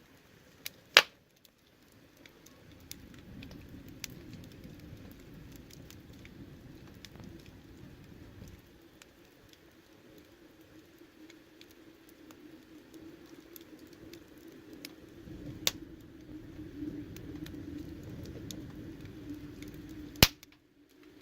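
Wood fire crackling, with scattered small ticks and three loud sharp pops: about a second in, about three-quarters through, and just before the end. Underneath, a low steady sound of the burning swells up twice.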